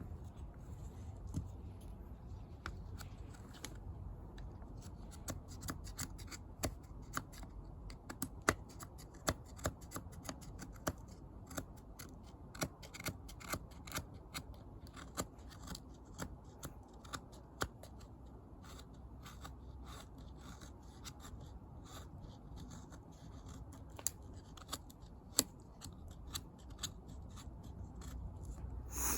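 Wood fire crackling in a homemade bucket fire pit: irregular sharp pops and snaps over a low rumble, coming thickest in the middle and again near the end.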